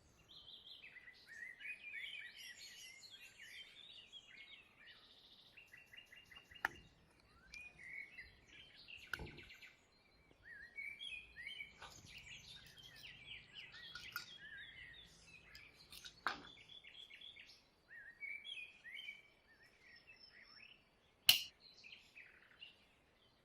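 Small birds chirping over and over in short, quick notes. A few sharp clicks or taps come in between, the loudest near the end.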